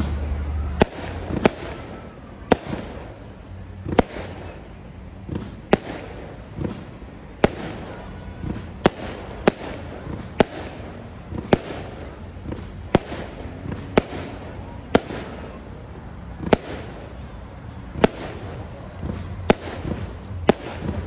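Aerial fireworks display: shells bursting overhead with sharp bangs about once a second, unevenly spaced, and a rumble between them.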